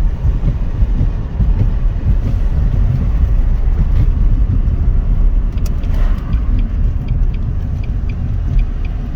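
Steady low rumble of a car, heard from inside it with the engine running. From about halfway through, short high pips repeat about twice a second over it.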